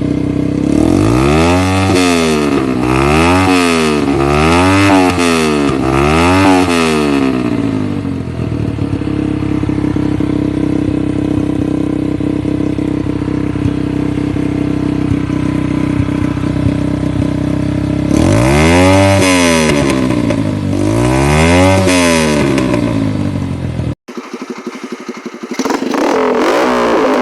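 Yamaha TT-R125 single-cylinder four-stroke dirt-bike engine on a racing lawn mower, blipped four times in quick succession, each rev rising and falling in pitch, then idling steadily before two more revs. Near the end the sound cuts off abruptly and a different, quieter sound builds up.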